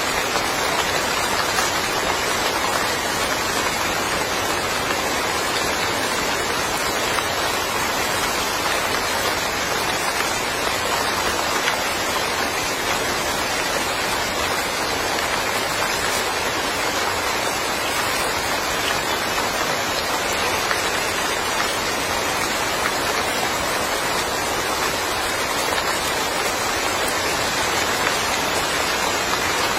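Steady rain falling in a small yard, an even hiss of rain with no breaks or single drops standing out.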